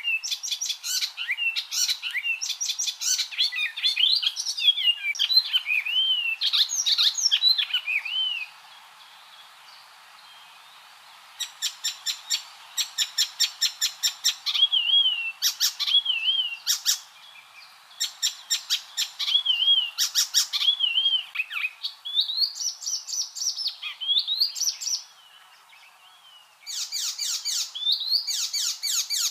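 Icterine warbler singing: a fast, varied song of whistled slurs mixed with quick runs of repeated harsh, chattering notes, breaking off twice for a couple of seconds.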